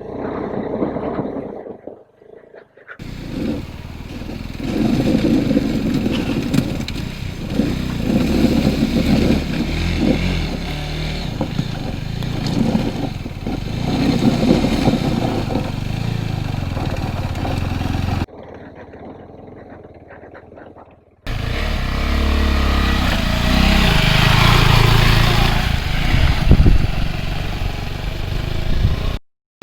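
Motorcycle engine running and revving on a rough off-road track, with rattling and scraping from the bike over the ground. The sound drops off sharply a few times where clips are joined.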